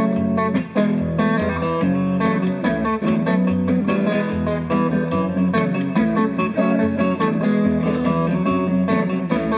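Live rock band playing an instrumental passage of the song without vocals: guitar to the fore over a bass line and a steady beat.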